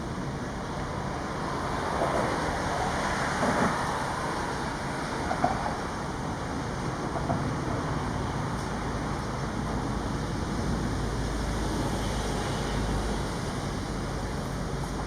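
Road traffic running steadily, swelling as vehicles pass about two to four seconds in, with a few faint short sounds over it.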